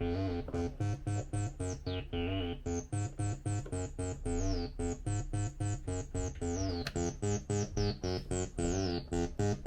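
Behringer TD-3 acid bassline: a fast, repeating run of short synth notes, about five a second, with the resonant filter sweeping down on many notes, over a steady low pulse in a hardcore techno track.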